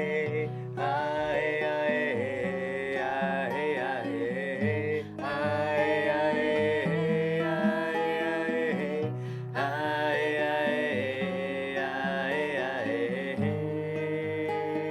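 Devotional chant-style song: a wordless sung melody with gliding, drawn-out notes over instrumental accompaniment, in two similar repeated phrases.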